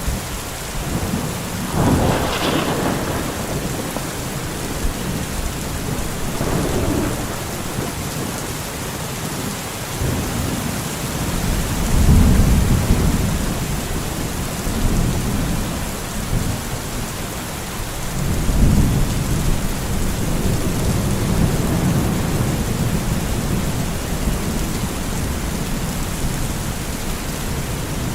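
Thunderstorm: steady heavy rain hissing, with a sharp thunder crack about two seconds in and long low rolling rumbles of thunder near the middle and again about two-thirds of the way through.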